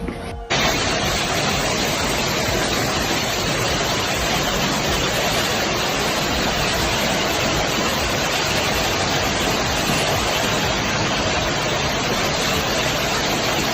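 A steady, loud rush of water that cuts in abruptly about half a second in and holds even throughout.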